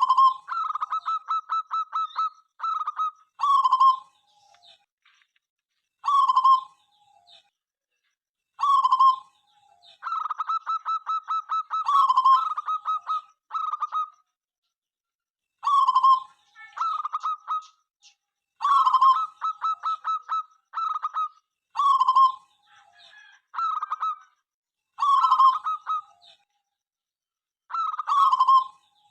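Zebra dove (perkutut) cooing over and over: each phrase is a quick run of staccato pulsed coos ending in a lower drawn-out note, with a new phrase every two to three seconds.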